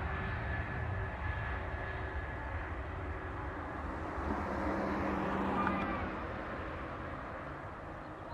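Jet engine noise from an Airbus A320-251N with CFM LEAP-1A turbofans: a steady rumble with a hiss that swells about five to six seconds in, then eases off.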